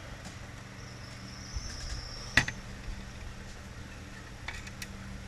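Light metal clicks of Edelbrock carburetor parts being handled as the top is fitted onto the base, with one sharper clack about two and a half seconds in. A steady high insect trill and a low hum run underneath.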